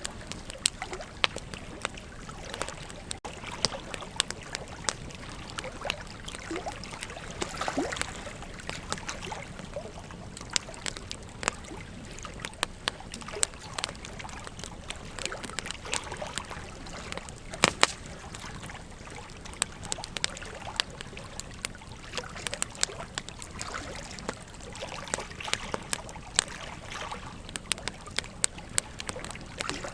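Wood campfire crackling, with irregular sharp pops and snaps coming several times a second, one louder pop a little past halfway, over a steady background hiss.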